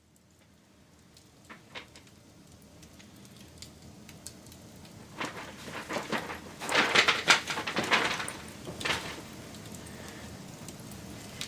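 Wood fire crackling and popping, fading in from silence over the first few seconds, with a dense run of sharp crackles about two-thirds of the way through.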